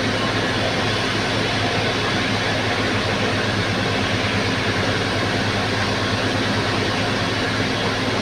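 Bulldozer's diesel engine running steadily at an even pitch, with a deep low hum under a broad mechanical rush.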